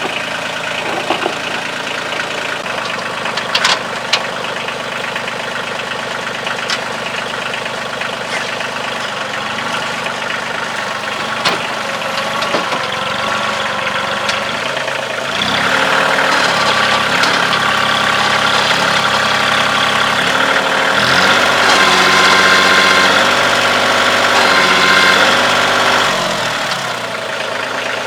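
Kioti CK2610 compact tractor's three-cylinder diesel running steadily at low revs, with a few sharp knocks in the first half. About halfway through it is throttled up and runs louder for some ten seconds, the pitch swinging as it takes load while lifting the front of a small barn, then it drops back toward idle near the end.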